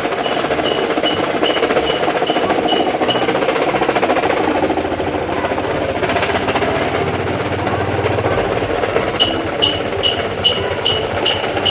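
Wobbling table fan running with a steady rattling drone. A sharp ticking at about two to three clicks a second is heard for the first few seconds, stops, and comes back about nine seconds in.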